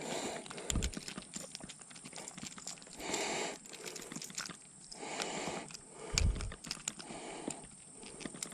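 Short splashes and sloshes in shallow creek water, coming about once a second, with scattered small clicks and two low thumps.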